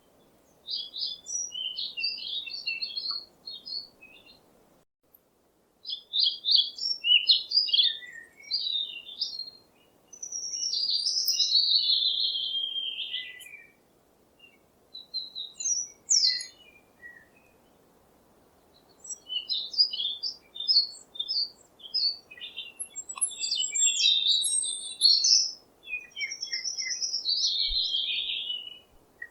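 Songbirds chirping in bursts of quick high chirps and trills, with a few longer phrases that fall in pitch and short pauses in between.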